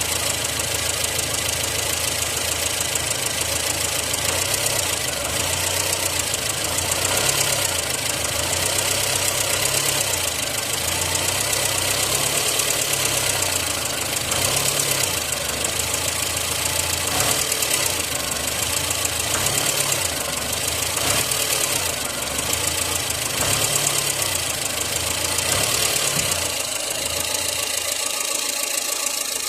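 VAZ 2114 8-valve four-cylinder engine running, its revs briefly raised and let fall again and again, with an extraneous knocking noise left after a rebuild of the crankshaft, bearing shells, piston rings and a connecting rod.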